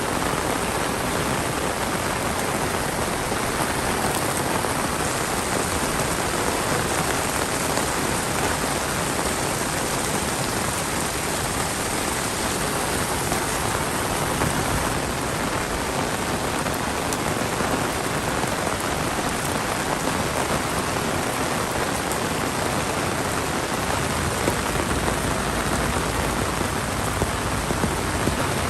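Heavy monsoon rain falling steadily, a dense even hiss of drops hitting surfaces, with scattered individual drop taps.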